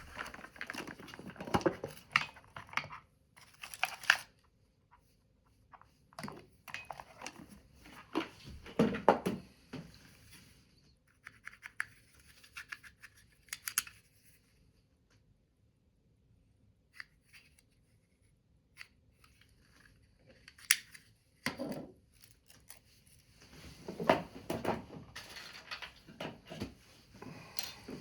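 Paper being cut with scissors and handled: snips, rustles and light taps in irregular bursts, with a quieter stretch of a few faint ticks in the middle.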